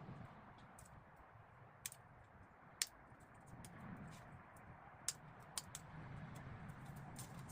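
A few sharp light clicks and taps from handling small parts, spaced irregularly, over faint low background noise.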